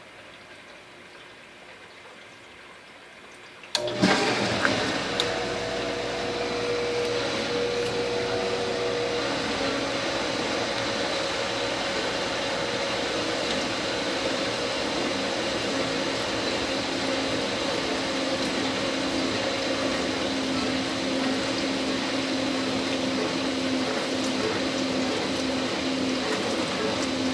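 Brastemp dishwasher: a faint hum, then about four seconds in its circulation pump starts suddenly and water sprays and sloshes steadily inside the tub, with a steady pump hum under the water.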